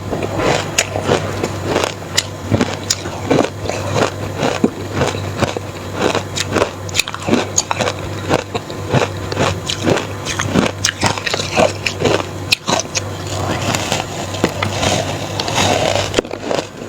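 Close-up crunching of crushed ice being bitten and chewed: a rapid, irregular run of sharp crunches, a few every second.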